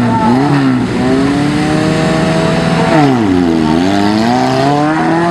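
An offroad 4x4's engine revving hard, its pitch going up and down as the throttle is worked. About three seconds in, the revs drop sharply and then climb back up.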